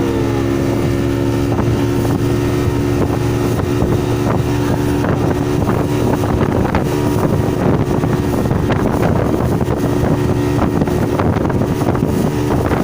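Motorboat engine running steadily at speed, a constant drone with wind buffeting the microphone.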